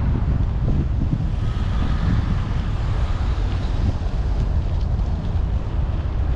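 Wind buffeting the microphone of a helmet-mounted GoPro on a moving bicycle, a steady low rush.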